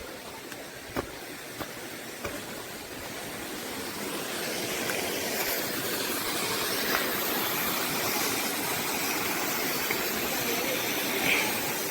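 Rushing water of a small waterfall: a steady hiss that swells over the first few seconds and then holds. A few light knocks of footsteps sound near the start.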